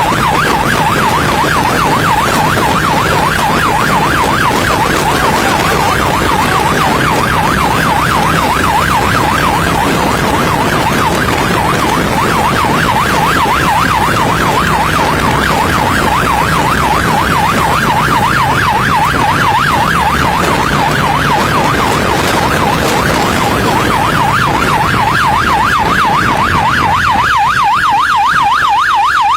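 Police siren in fast yelp mode, sweeping rapidly up and down about three times a second, over the steady hum of a motorcycle engine.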